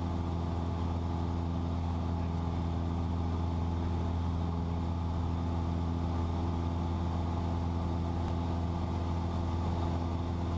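Cessna 172's single piston engine and propeller droning steadily in flight, heard inside the cabin. It holds an even, low pitch with no change in power.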